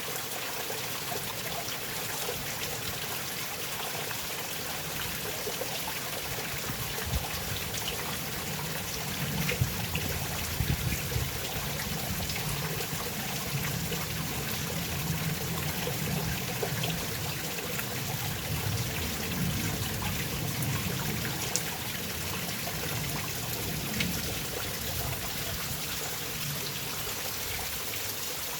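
Small stream trickling and gurgling steadily, with a deeper low rumble joining through the middle stretch.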